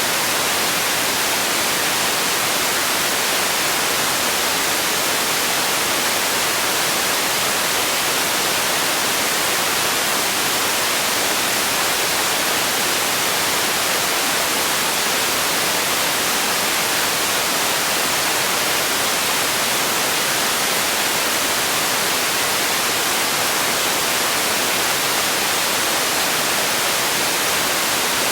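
Steady generated white noise: an even, bright hiss at a constant level, with no change throughout.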